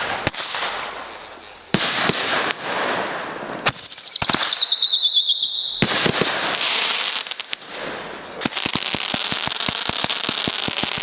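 Consumer fireworks going off: several sharp bangs with crackle, a whistle falling in pitch from about four seconds in that ends in a bang, then a rapid string of firecracker-like pops through the last few seconds.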